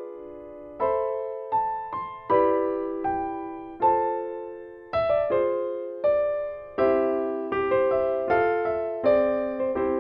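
Background music: a gentle piano or electric-piano melody of single struck notes and chords, each note fading away.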